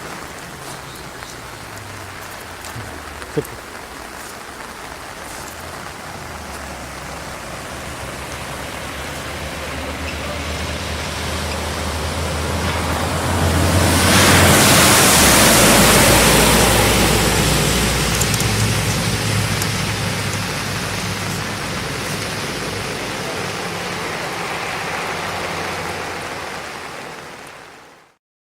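Steady rushing noise of rain and floodwater, swelling loud about halfway through with a low rumble, then fading out at the end.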